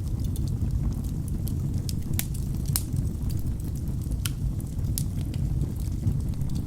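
Wood fire burning in a fireplace: a steady low rumble of flames with irregular sharp crackles and pops from the logs, the loudest a little over two seconds in and near three seconds.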